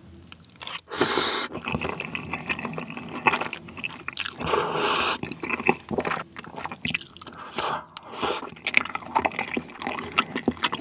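Close-miked wet chewing of spicy tteokbokki with cream sauce and linguine, with many small sticky mouth clicks. There are two short noisy slurps, about one and four and a half seconds in.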